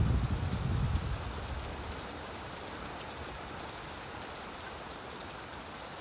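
Steady rain hiss. A low rumble fades out over the first couple of seconds.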